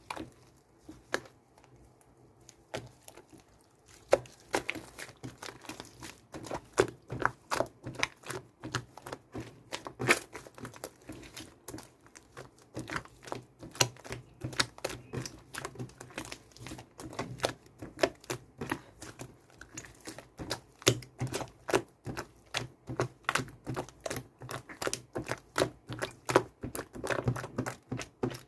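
Slime being squished and kneaded by hand, making a fast, irregular run of sharp clicks and pops. The clicks are sparse at first and come thick and steady from about four seconds in.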